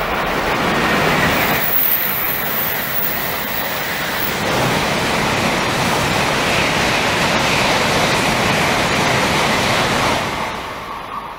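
Shinkansen bullet trains passing at speed: a loud rushing of wheels and air that swells early, holds, and fades away near the end.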